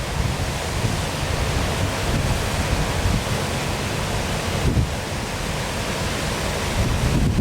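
Waterfall pouring steadily, an even rushing hiss, with wind buffeting the microphone in irregular low rumbles.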